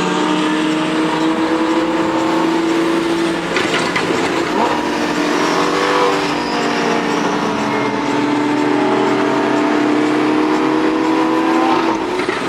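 Sports car engine pulling hard under acceleration, its pitch climbing slowly and steadily. There is a brief break about four seconds in and a gear change near the end.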